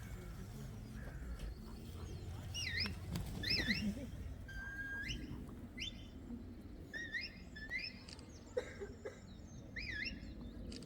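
Shepherd's whistle commands to a working sheepdog: a series of short, high whistled notes, some sweeping down and back up, others holding level and then jumping up in pitch.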